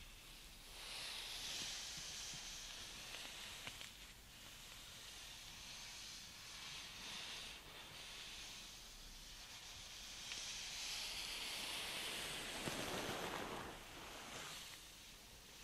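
Soft swishing hand sounds: a hand moving and brushing close to the microphone, swelling and fading in slow waves, with a fuller swish about three-quarters of the way through.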